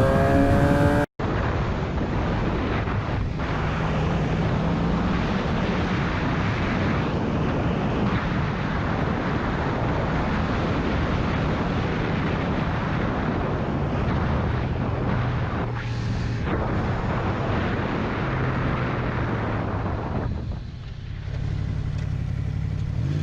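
Motorcycle riding on the road: a steady engine drone under heavy wind rush. A short rising rev in the first second is cut off abruptly, and the wind noise dips briefly near the end.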